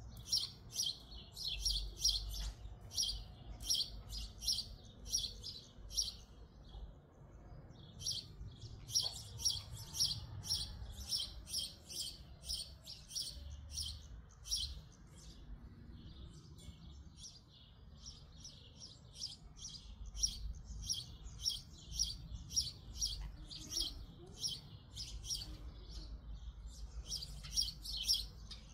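Small birds chirping rapidly, several short high chirps a second, in long runs broken by two brief pauses.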